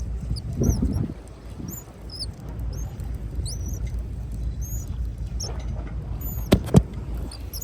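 Many short, high-pitched bird chirps over a steady low rumble. Two sharp clicks come close together near the end.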